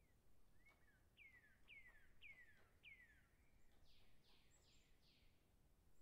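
Faint bird calls: a run of four whistled notes, each sliding down in pitch, about half a second apart, followed by four harsher, higher calls near the end.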